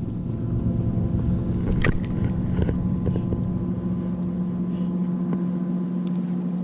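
A boat motor running steadily at an even pitch, a low hum. Wind rumble on the microphone fades about five seconds in, and there is a single sharp click just under two seconds in.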